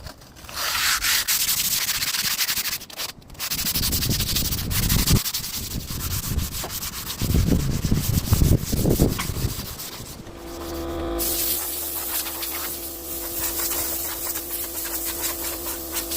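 Sandpaper scraping over the rusty steel of a tractor wheel rim, hand-sanding it ready for primer, in uneven rasping strokes. From about ten seconds in, a steady hum with a held tone sounds under it.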